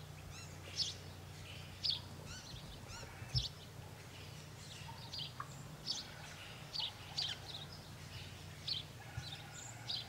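Birds giving short, high chirps, about one a second, over a low steady hum, with a soft low thump about three and a half seconds in.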